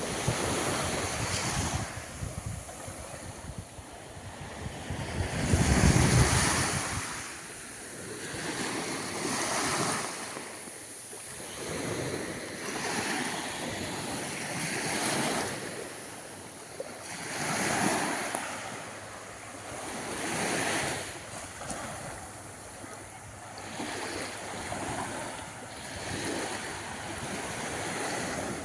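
Small waves breaking and washing onto a sandy beach, swelling and receding every few seconds. Wind buffets the microphone in the first several seconds, loudest about six seconds in.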